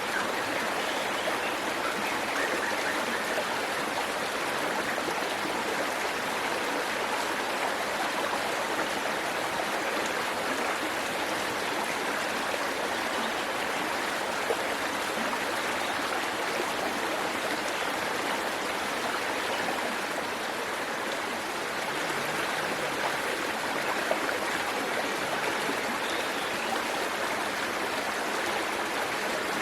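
Small waterfall and stream: water splashing and rushing steadily over rocks.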